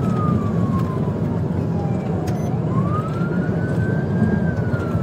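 Police car siren on a slow wail, falling, then rising once and starting to fall again near the end, over heavy road and engine noise from the patrol car at about 100 mph.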